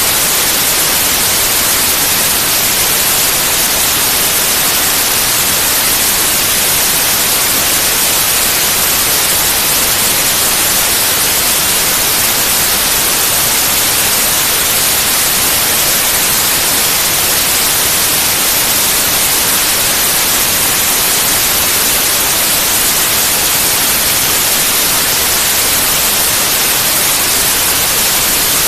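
Steady, loud, unchanging white noise: an even hiss that is strongest in the treble, with no breaks or events.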